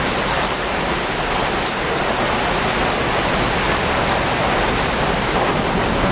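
Steady rushing noise of heavy rain and floodwater.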